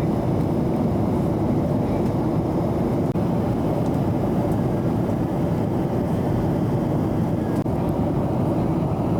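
Steady cabin noise of a Boeing 737-700 in flight: the even rush of its CFM56 jet engines and the airflow over the fuselage, heavy in the low end with no change in pitch.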